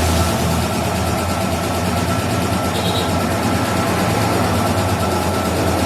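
Yamaha RX-King's two-stroke single-cylinder engine idling steadily.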